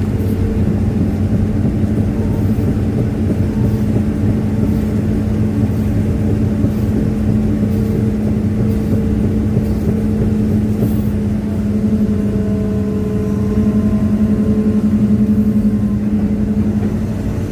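Hitachi excavator's diesel engine running steadily, with a stretch of louder, pulsing engine note a little past the middle.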